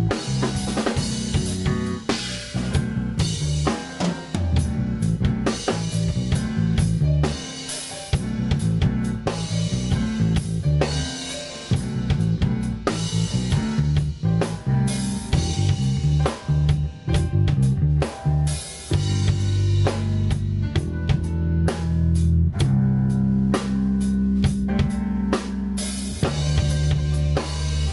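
Instrumental rock band playing live, with busy drum kit work (kick, snare and rimshots) over a moving electric bass line.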